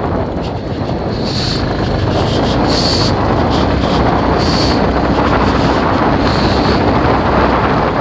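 Bajaj Pulsar 220F motorcycle's single-cylinder engine running on the move, under heavy wind rush on the microphone. A few short, high-pitched chirps come through over it.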